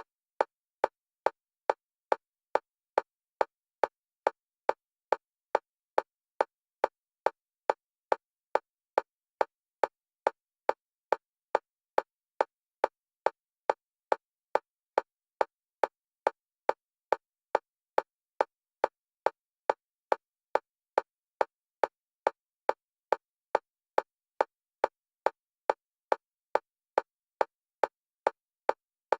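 Synthetic metronome clicks for EMDR bilateral stimulation, short and evenly spaced at about three a second with silence between them, alternating between the left and right stereo channels.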